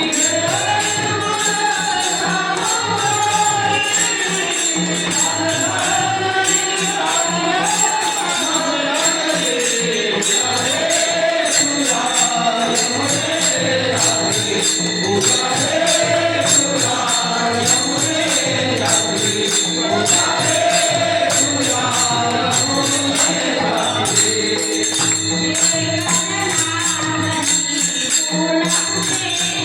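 A woman singing a Marathi devotional song to Krishna, a flowing melody over steady music with jingling percussion.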